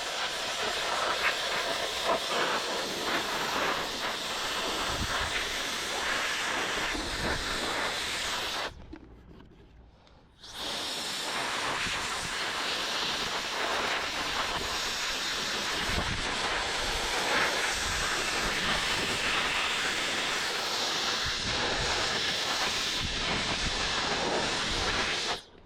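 Electric air duster blowing a steady hiss of air. It stops for about two seconds partway through, starts again, and cuts off suddenly at the end.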